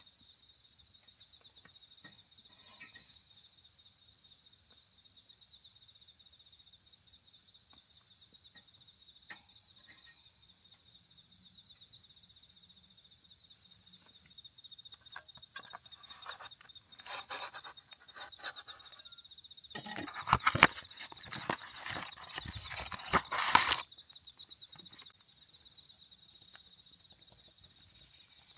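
Crickets or other insects trilling steadily in a high, finely pulsing chorus. Partway through comes a spell of close rustling, crackling and clattering, loudest for a few seconds near the end.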